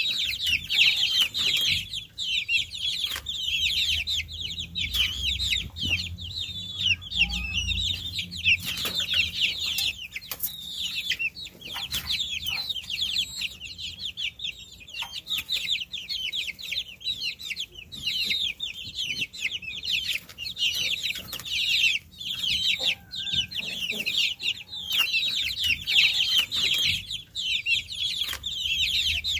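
A brood of baby chicks peeping continuously: many overlapping high-pitched chirps at once, with a few faint clicks and knocks.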